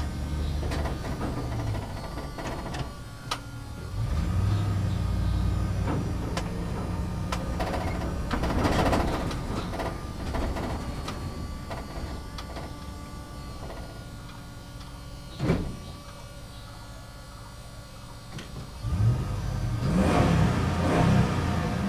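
Backhoe loader's engine running, swelling and easing in level as it works, with bursts of noise and a few sharp clanks, the loudest about fifteen seconds in.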